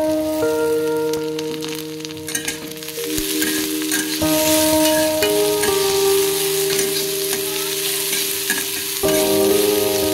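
Onions, garlic and green chillies sizzling in oil in a kadai, stirred with a spatula that scrapes the pan now and then. Background music of held chords plays over it, changing about four seconds in and again near the end.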